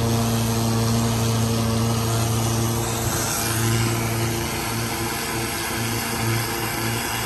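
An engine running steadily with an even hum; from about halfway on its low drone rises and falls in a regular pulse.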